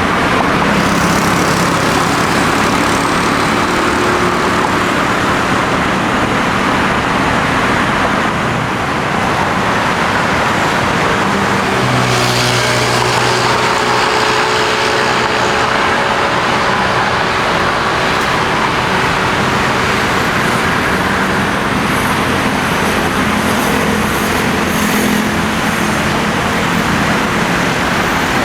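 Engines and propellers of a landing Dash 8 Q400 turboprop airliner, a loud, steady noise. A low, steady propeller hum with higher tones comes in about twelve seconds in.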